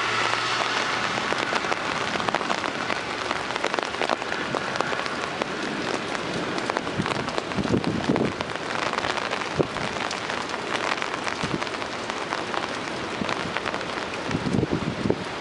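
Heavy rain pouring down, with many close drops striking a hard surface as sharp little taps. A few dull low thuds stand out around the middle and again near the end.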